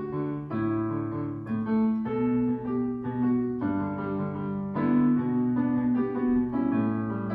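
Piano playing a slow chordal introduction, the chords changing about every half second to a second.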